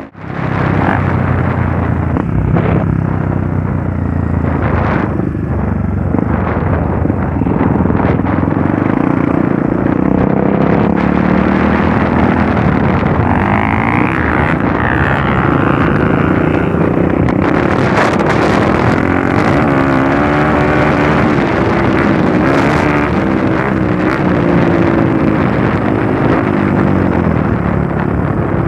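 Trail motorcycle engine revving up and down while riding, with scattered knocks and rattles.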